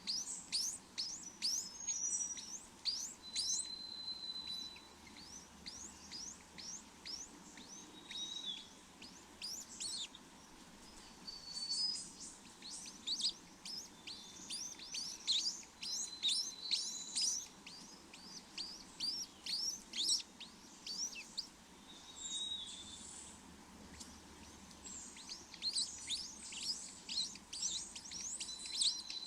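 Small birds chirping: runs of quick, high, downward-sliding chirps coming in bursts throughout, with a few short whistled notes between them.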